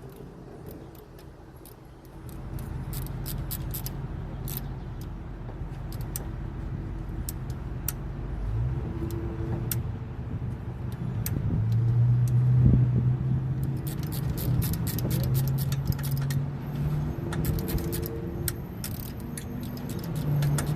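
A motor or engine running with a steady low hum that starts about two seconds in and grows louder around the middle, with light metallic clinks of tools throughout.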